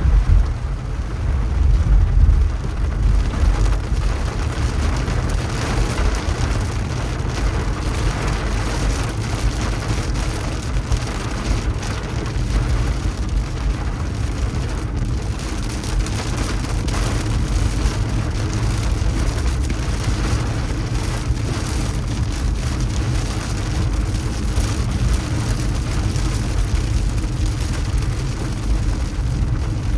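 A car driving in the rain: the steady low rumble of the engine and tyres, with rain pattering on the car.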